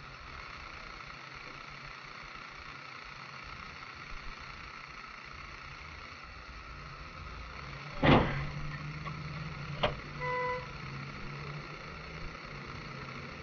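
Steady road noise inside a moving car, then a loud bang of a collision about eight seconds in. A sharp knock and a short beep follow soon after.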